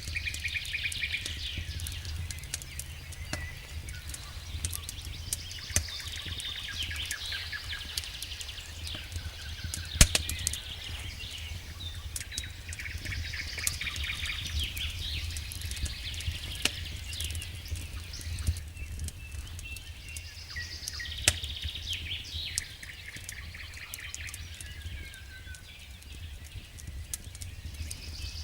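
Wood fire crackling in a fireplace: many small irregular crackles and sharp pops, the loudest about ten seconds in, over a steady low rumble.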